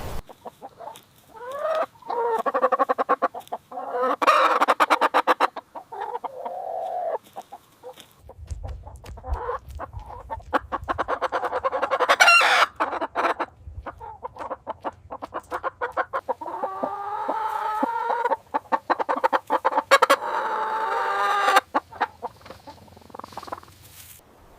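Chickens clucking and calling: a run of short clucks broken by several longer, pitched calls, the longest about two thirds of the way in.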